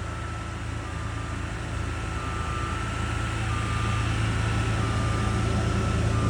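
Heavy construction machine running: a low steady engine drone growing louder, with a reversing alarm beeping a little more than once a second.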